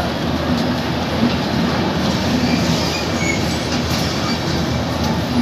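Passenger train's coaches rolling past as it pulls out of the station, a steady rumble of wheels on rail with faint wheel squeal over it.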